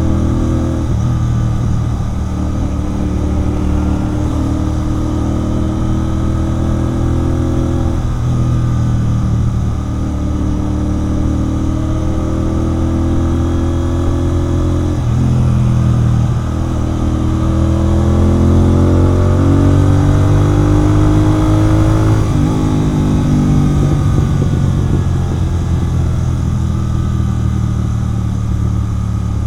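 Royal Enfield Continental GT 650's 648 cc parallel-twin engine running through a Red Rooster aftermarket exhaust while riding. The revs climb and drop back at gear changes about three times, then hold lower and steadier near the end.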